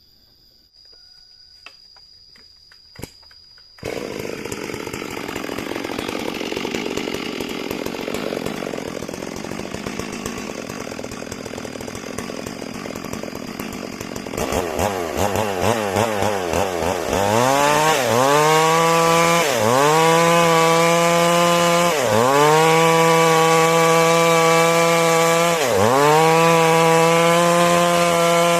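Stihl MS 382 two-stroke chainsaw cutting into a large log. A few clicks come first, then the saw comes in loud about four seconds in. In the second half its engine note runs high and dips in pitch about every three seconds as the chain loads in the cut.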